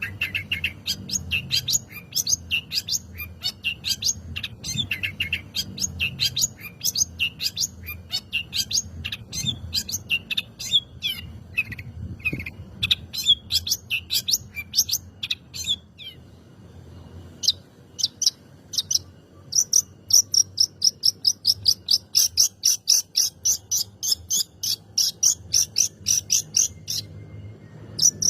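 Long-tailed shrike (cendet) singing a long run of rapid, sharp chirps. After a short pause about two-thirds of the way through, it switches to an even series of high chirps, about five a second.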